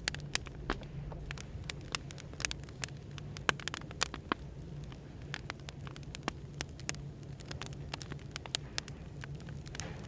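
Wood fire crackling, with many irregular sharp pops, over a steady low hum of café background noise.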